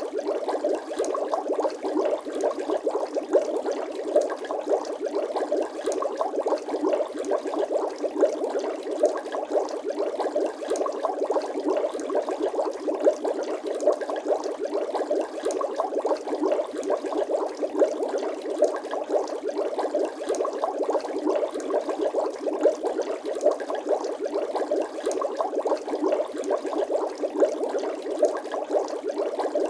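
Bubbling-water sound effect: a dense, unbroken stream of small bubbles gurgling, full of quick little pops.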